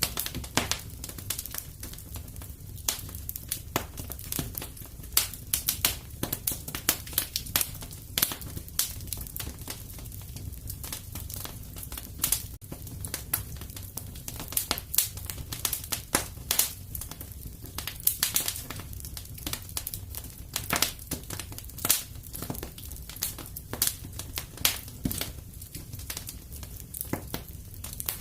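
Wood fire in a fireplace crackling and popping: dense, irregular sharp snaps over a steady low rumble.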